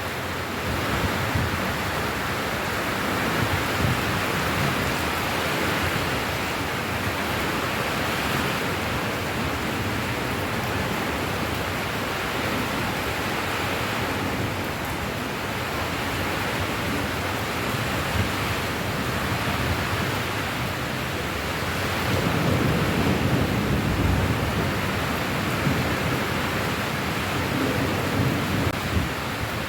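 Steady heavy rain, a dense even hiss. A low rumble swells for a few seconds about three-quarters of the way through.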